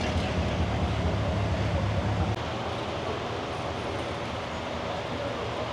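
A vehicle engine's low rumble, which cuts off abruptly a little over two seconds in and leaves a steadier, quieter outdoor background.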